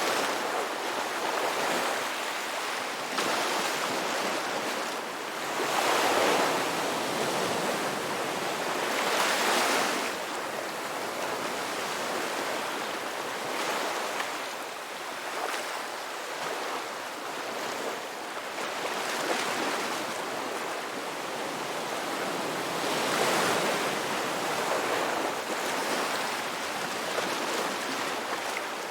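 Ocean surf breaking and washing ashore, swelling and fading in surges every few seconds.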